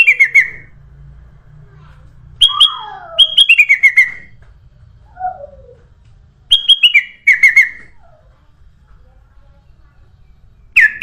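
Kutilang emas bulbul singing: four loud bursts of rapid chirping notes a few seconds apart, each burst stepping down in pitch, with faint lower sliding whistles in between.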